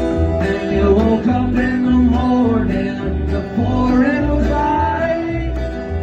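A live acoustic country band plays the song's opening, with a steady beat of low thumps about twice a second under a melody whose notes slide up and down in pitch.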